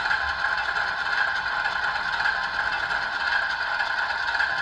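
Sound decoder in a model ES44AC locomotive playing its idling GE diesel prime-mover sound through the model's small speaker. It is a steady, even mechanical running sound.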